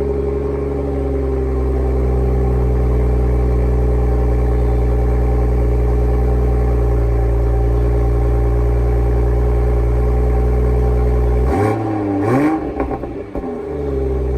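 Toyota GR Supra (A90) engine idling steadily just after start-up. Near the end it gives a brief rev with a couple of sharp exhaust pops, then settles back to idle.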